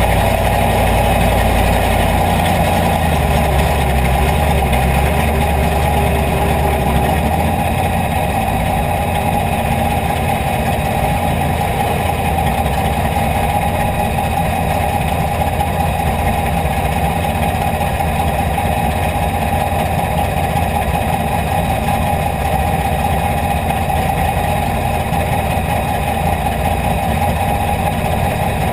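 IMCA Hobby Stock race car's V8 engine idling steadily, heard from inside the cockpit. Its low note shifts about seven seconds in, then holds even.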